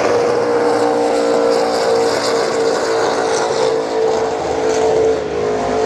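A car engine held at high, steady revs with a strong, even tone that dips slightly near the end.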